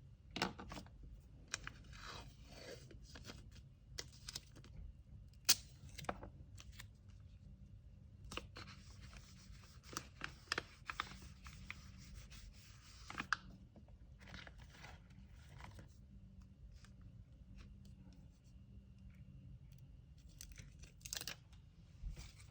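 Hands packing an order: scattered light taps and clicks of items being handled, with a short stretch of tearing early on and a longer one about halfway through.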